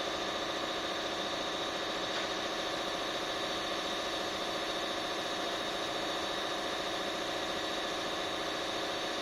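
An engine idling steadily: an even, unchanging hum with no revving.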